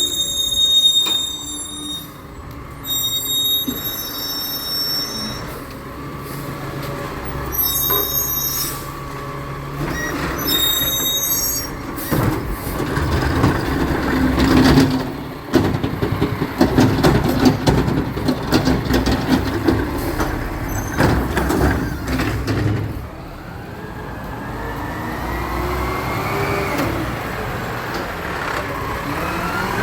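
Recycling truck collecting a cart. High squeals come on and off for the first dozen seconds, then a long stretch of clattering as the recyclables tumble into the hopper. Near the end the engine revs with a rising pitch.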